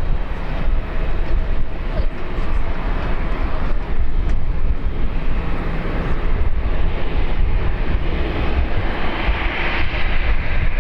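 A landing airliner's engines give a steady, loud rumble that swells louder near the end.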